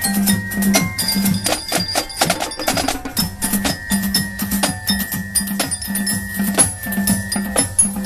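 Marching showband playing: many drum strokes in a steady rhythm, bell-like mallet percussion such as glockenspiel on top, and recurring sustained low notes.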